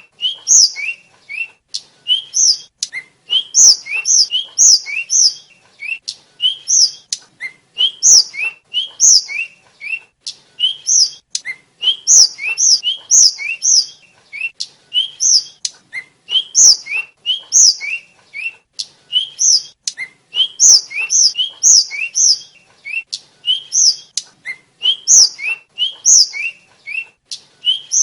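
Tledekan (sikatan), a small blue flycatcher, singing a rapid, continuous song of short, high, clear whistled notes. Low rising notes alternate with louder falling ones in phrases that repeat over and over.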